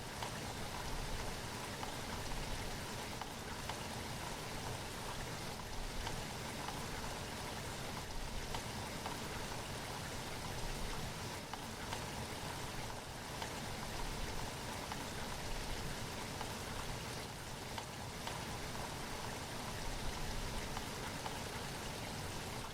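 Steady rain falling, an even hiss of drops with light patter on surfaces.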